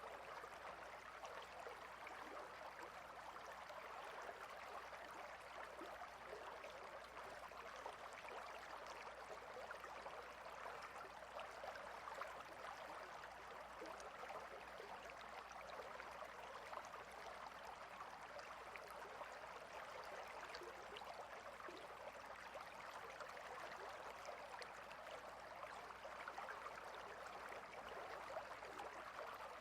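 Shallow river water flowing steadily over and between rocks: a faint, even rush with fine splashing texture.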